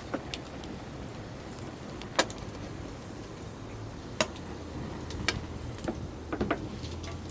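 Wood campfire crackling: a handful of sharp, irregular pops over a low steady background.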